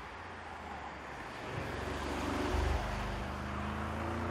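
Audi SQ8's 4.0-litre twin-turbo V8 passing by through a hairpin, engine and tyre noise growing louder as it comes round, loudest about halfway through. Near the end the engine note climbs as it accelerates away out of the bend.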